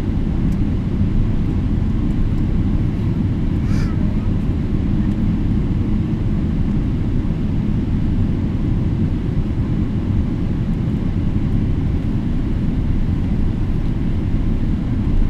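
Steady low rumble of a Boeing 777-300ER with GE90 engines running at a constant, low power setting, with no spool-up.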